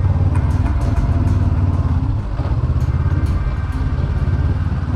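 Honda CB500X motorcycle's parallel-twin engine running steadily at low revs, with a brief dip in loudness about two seconds in.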